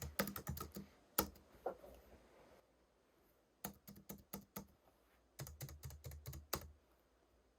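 Typing on a Logitech MX Keys Mini, a low-profile scissor-switch keyboard: short bursts of soft key clicks with a pause in between. A single louder keystroke comes about a second in, and the typing stops shortly before the end.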